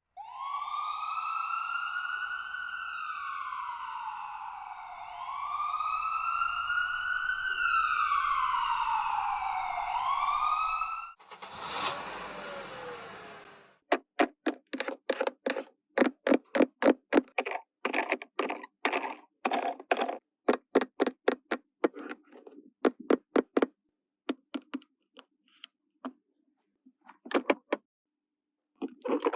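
A wailing siren that slowly rises and falls in pitch, each sweep taking a few seconds, stops about eleven seconds in. After a brief rustle, quick irregular plastic clicks and taps follow.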